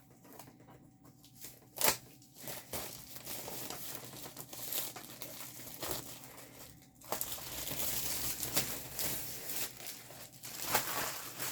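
Plastic packaging of a diamond painting kit crinkling and rustling as it is handled and opened by hand. There is a sharp knock about two seconds in, and a louder, denser stretch of rustling in the second half.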